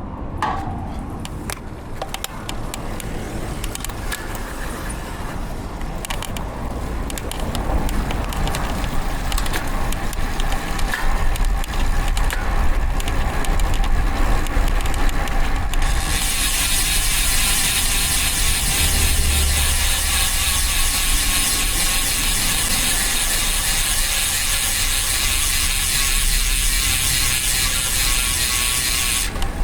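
Rear freehub of a DT Swiss ARC1100 road-bike wheel clicking as the bike coasts. It is scattered at first, then about halfway through it becomes a loud, dense, high-pitched buzz that cuts off suddenly near the end as pedalling resumes. Road and traffic rumble runs underneath.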